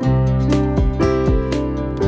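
Background music: a gentle plucked acoustic-guitar tune over a steady bass.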